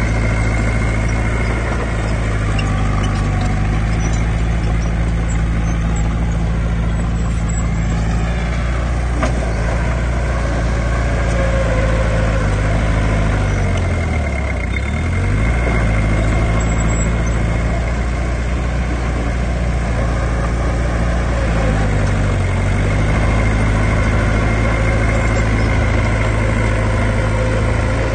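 Heavy diesel engine of earthmoving machinery running steadily. Its note dips and comes back up a few times, with the deepest drop about halfway through.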